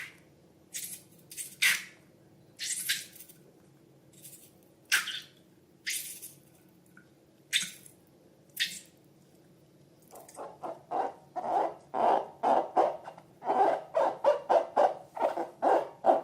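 Slime being squished and pressed by hand: separate short, sticky squishes about once a second, then, from about ten seconds in, a faster run of squelches several times a second.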